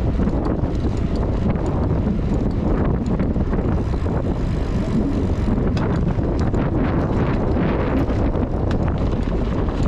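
Steady wind rumble on the microphone of a camera carried on a moving bicycle, with scattered small clicks and rattles.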